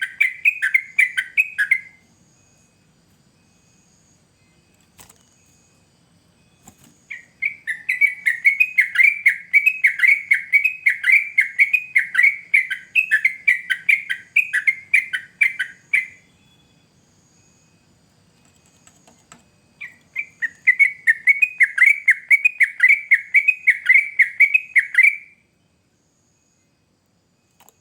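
A yellow-vented bulbul (trucukan) sings in three bursts of rapid, repeated bubbling chirps, each lasting several seconds, with pauses of a few seconds between them.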